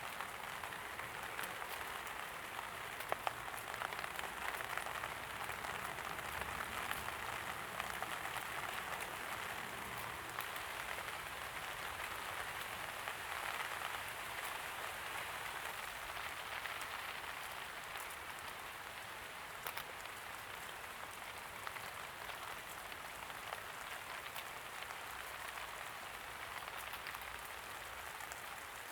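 Steady light rain falling, an even hiss with many small drop ticks and the odd louder drip.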